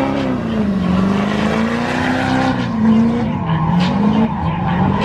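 Vehicle engine revving hard, its pitch rising and falling several times as the throttle is worked, over a steady noisy background.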